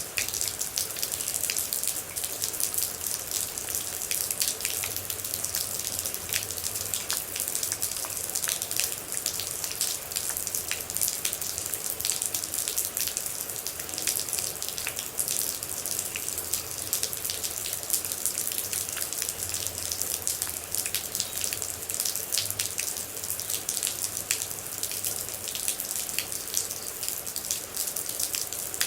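Steady rain with many water droplets falling, a constant hiss dotted with dense, irregular drips and ticks.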